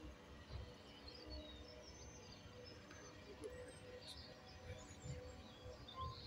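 Faint outdoor ambience: breeze buffeting the microphone in a low, uneven rumble, with a few faint, scattered bird chirps.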